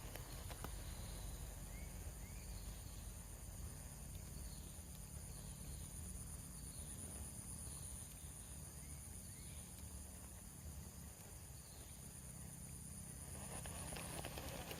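Insects, crickets or cicadas, droning steadily at a high pitch, with faint short rising chirps every second or so.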